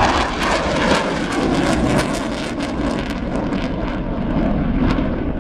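Panavia Tornado GR4 jet flying in the display, its twin Rolls-Royce RB199 engines a loud, steady rush of jet noise with ragged crackle.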